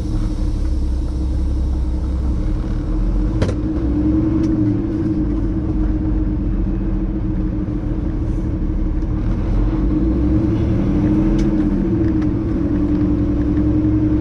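Semi truck's diesel engine running as the truck drives off, its pitch rising and falling slightly with the revs. A single sharp click about three and a half seconds in.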